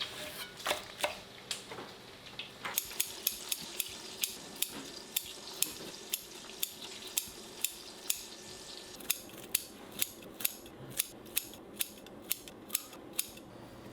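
A metal utensil knocks against a pan or dish in a steady rhythm about twice a second, over a faint sizzle that fades about two-thirds of the way through.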